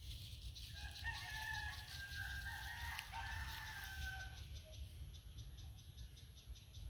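A rooster crowing once, a single drawn-out call of about three and a half seconds, over a steady low rumble.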